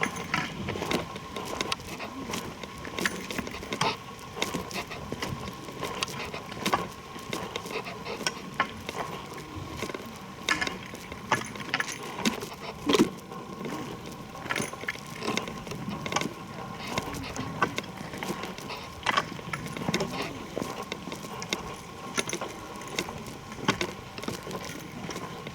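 Footsteps crunching along a rocky dirt trail in an irregular walking rhythm, with light jingling and a faint steady tone in the background.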